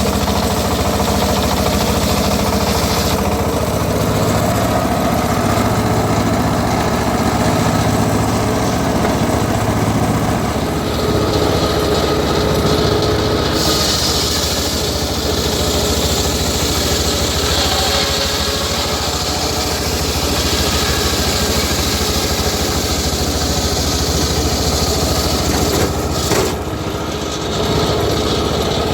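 Engine of a homemade circular-saw rig running steadily under a loud, continuous drone. A brighter hiss joins about halfway through, and there is a brief drop in level near the end.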